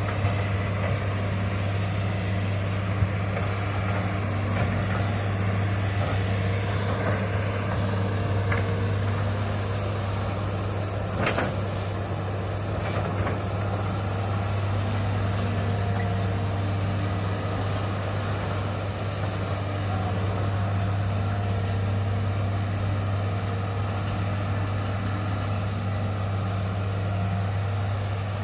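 Hitachi excavator's diesel engine running steadily at a constant low hum, with an occasional short knock.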